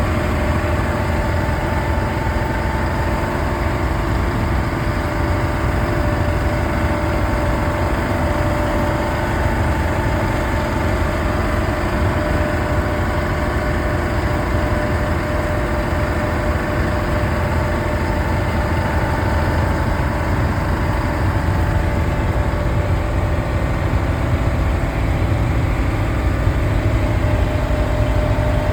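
Truck engine and road noise while driving at a steady speed, a continuous even rumble with a faint steady hum over it.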